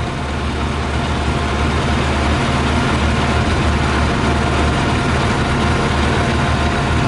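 Yamaha YZF600R's carburetted inline-four engine idling steadily while it runs on 40% whisky in the tank instead of petrol.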